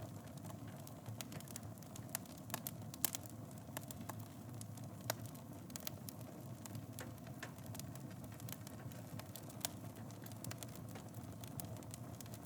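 Fire in a fireplace crackling: irregular sharp pops and snaps over a low steady rumble of the flames, with a few louder pops around three and five seconds in.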